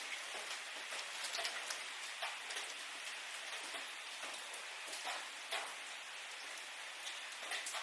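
Steady rain hissing, with individual drops striking a surface at irregular intervals.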